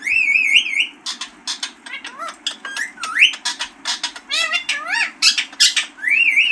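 Rose-ringed (ring-necked) parakeet calling: a rapid run of short, harsh squawks mixed with warbling whistles that wobble up and down in pitch.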